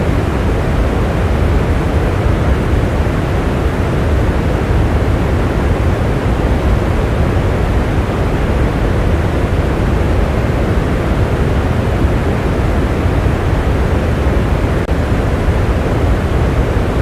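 Steady rain: a dense, even rushing noise, deep rather than crackly, without breaks or separate drops standing out.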